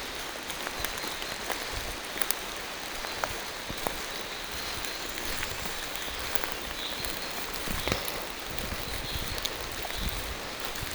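Steady rain falling through a forest, with many separate drops tapping sharply on leaves close by.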